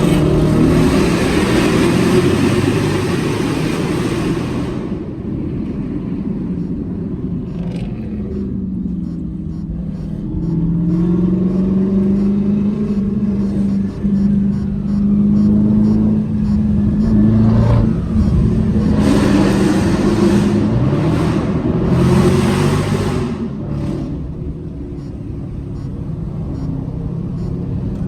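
Muscle-car V8 engines revving and accelerating hard, their pitch rising and falling. A loud rushing noise comes in over them during the first five seconds and again about two-thirds of the way through.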